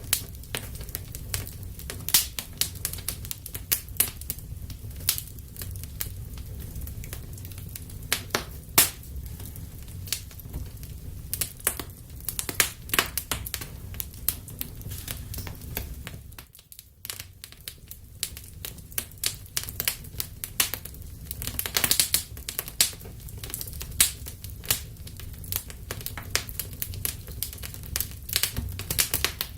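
Wood fire burning in a fireplace: sharp, irregular crackles and pops over a low, steady rumble of the flames, with a brief lull a little past the middle.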